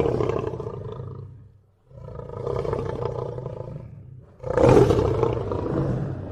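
Lion roaring: a roar fading out, then two more long roars starting about two seconds and four and a half seconds in, the last the loudest.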